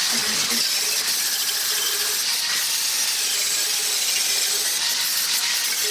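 Angle grinder grinding out a porous weld seam on steel plate. It cuts in suddenly at full loudness and runs steadily: a high, hissing grind over a faint motor whine.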